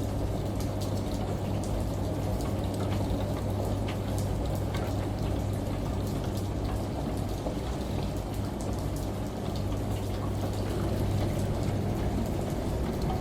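Layered home ambience: steady rain and running water with many small scattered drips, over the low steady hum of a washing machine.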